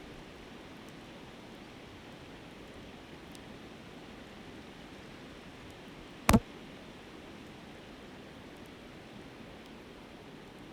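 Steady rush of a flowing river with faint crackling from a wood campfire. A little past halfway comes one sharp, loud pop from the fire.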